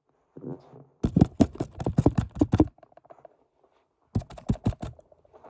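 A cat chewing snacks, crunching them in quick strokes about six a second: a run of nearly two seconds starting about a second in, then a shorter run near the end.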